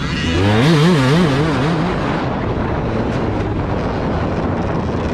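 Steady wind noise on the microphone over a running vehicle. About a third of a second in, a warbling tone rises and falls about three times a second for a second and a half.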